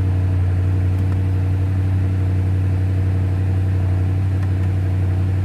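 2019 BMW M550i's twin-turbo V8 idling steadily with a low, even hum, running on fresh oil just after an oil change.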